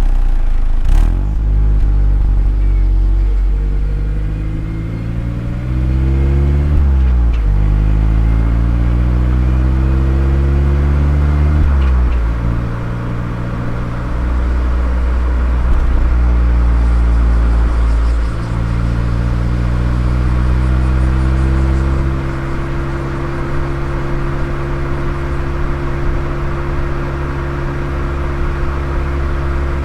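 Mazda ND Roadster (MX-5) four-cylinder engine through its aftermarket exhaust while driving: the pitch climbs and drops sharply at each of about three upshifts. It then settles into a steady cruise near the end.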